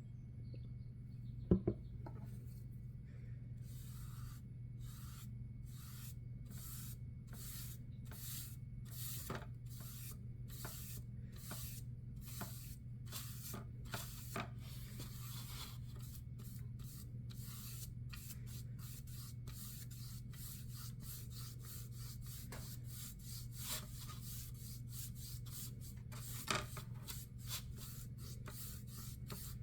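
Rhythmic scraping strokes across a surface, slow at first and quickening to about three a second from midway, over a steady low hum. A sharp knock comes about one and a half seconds in.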